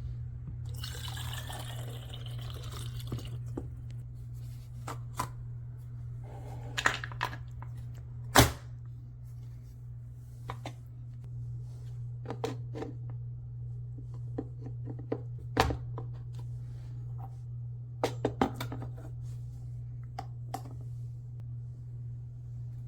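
CHULUX Slim single-serve K-cup coffee maker brewing: coffee trickling and dripping into the cup over a steady low hum, with a burst of hissing about a second in. Scattered clicks and ticks run through it, the loudest a sharp click about eight seconds in.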